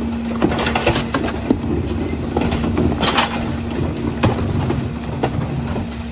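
Garbage truck compactor running with a steady hum while trash and bulk items are crushed, giving many scattered cracks and snaps.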